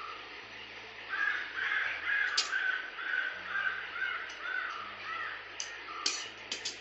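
A bird calling in a run of short calls, about three a second, from about a second in until past the middle. A few sharp clicks come near the end.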